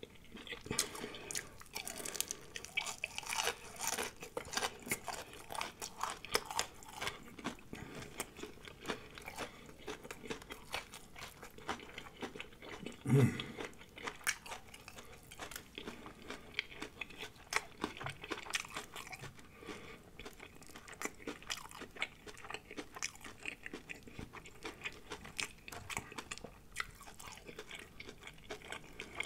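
Close-miked crunching and chewing of battered, deep-fried shrimp, with irregular crisp crackles throughout. There is one louder low thump about 13 seconds in.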